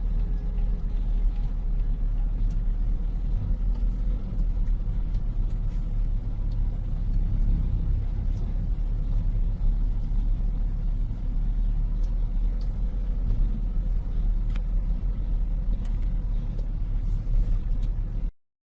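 Truck engine running with a steady low rumble, cutting off abruptly near the end.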